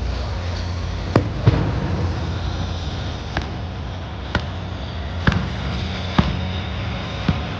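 Fireworks bursting overhead: about seven sharp bangs at uneven intervals over a steady low rumble.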